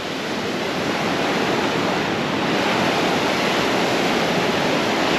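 Surf washing up a sandy beach: a steady rushing of breaking waves that builds slightly.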